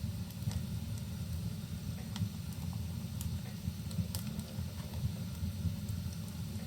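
Fireplace crackling, sharp irregular pops over a steady low rumble that blends the fire with rain.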